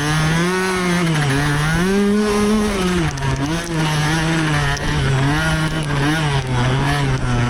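Dirt bike engine revving under riding, its pitch rising and falling repeatedly as the throttle is opened and closed, then holding a lower, steadier note over the last few seconds.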